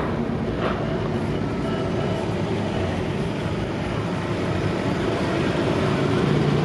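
Car engines running as vehicles roll past, over a steady rushing background, with a low engine hum growing louder near the end.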